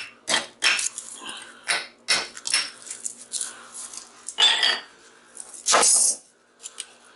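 Irregular metal clanking and clattering as a transformer is knocked apart in a vise, its steel core laminations rattling free of the copper coil. The loudest clanks come about four and a half and six seconds in.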